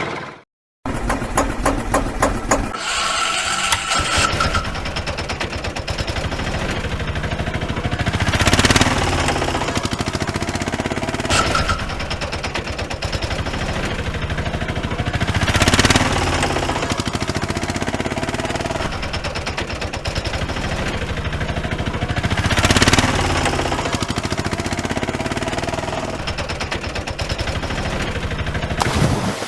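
An engine running steadily with a fast, even knocking pulse, swelling louder about every seven seconds. It cuts out for a moment right at the start.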